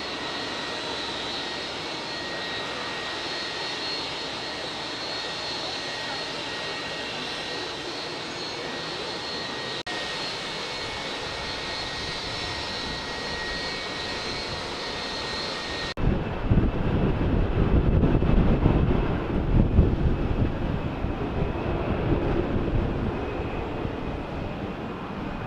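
Jet airliner engines with a steady high whine over a rushing noise. After an abrupt cut about two-thirds of the way in, a louder, rough low rumble takes over.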